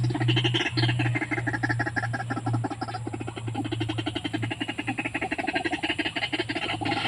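White-breasted waterhen calling: a fast, even run of repeated croaking notes, over a steady low hum.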